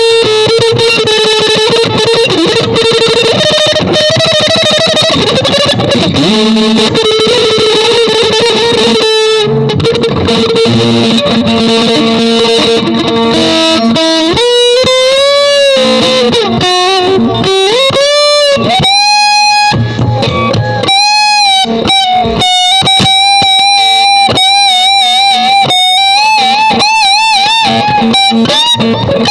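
Electric guitar music: held lead notes with slow pitch bends about halfway through and wide vibrato on the sustained notes near the end.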